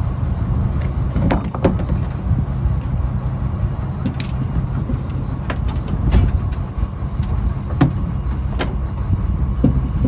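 Fishing trawler's engine running steadily with a low rumble, with scattered sharp knocks and clanks every second or two.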